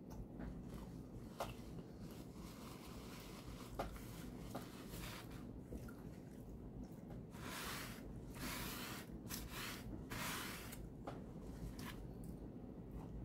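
A person chewing a mouthful of melt sandwich: faint, soft wet mouth sounds and small clicks, with a few louder squishy stretches in the second half.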